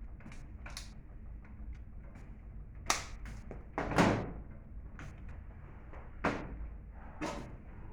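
A few knocks and clunks of things being handled and set down on a workbench, the loudest about four seconds in, over a steady low hum.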